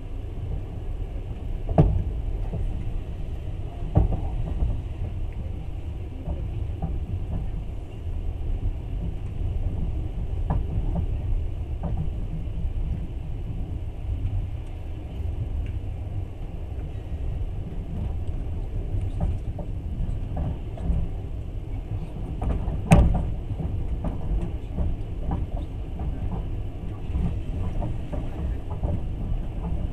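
Long-distance passenger train running on rails, heard from inside the carriage: a steady low rumble with a few sharp knocks from the wheels, the loudest about 23 seconds in.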